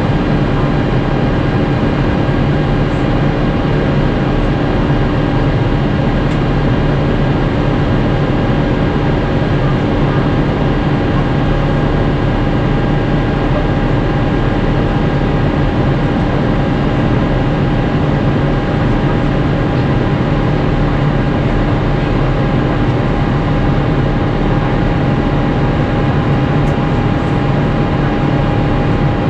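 Airbus A350-900 cabin noise in flight: the steady drone of the Rolls-Royce Trent XWB turbofans and the rush of air past the fuselage, with a low rumble under a few steady hum tones.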